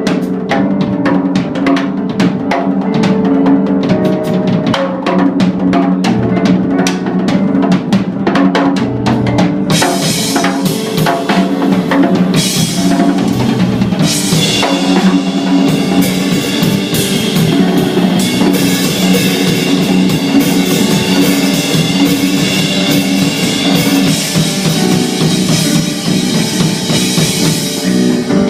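Live rock band playing an instrumental passage: drum kit with bass drum and snare over bass and guitar. About ten seconds in, cymbals come in and the sound turns brighter and fuller.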